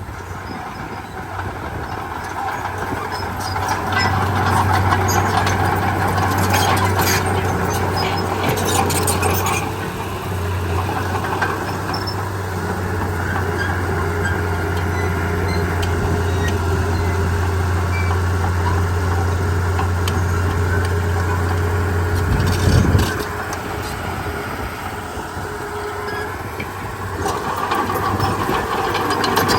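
Heavy diesel machinery working, a bulldozer and dump trucks: a steady engine drone with clusters of metallic clanks several seconds in and a short loud burst about 23 seconds in.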